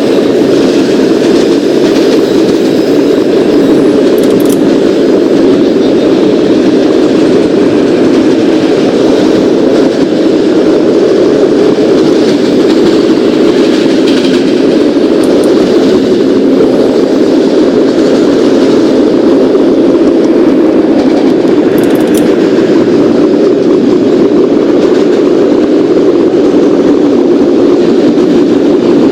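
Subway garbage train running along the track, a steady loud rumble with a few faint high clicks.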